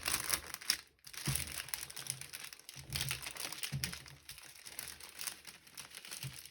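Small plastic bags of diamond-painting drills crinkling and rustling as they are handled and taken out of their packaging, with a brief pause about a second in.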